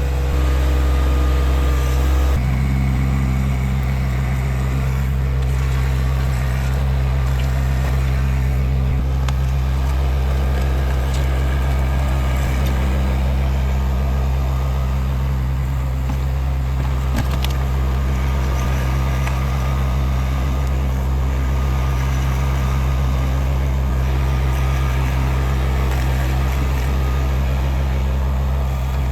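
Tractor engine running steadily, its note shifting slightly about two seconds in and then holding even.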